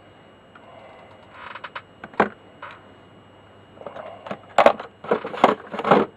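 Small metal tools and parts clinking and clattering as they are handled, a scatter of sharp clicks with a single loud one about two seconds in and a busier run of clatter from about four and a half seconds in.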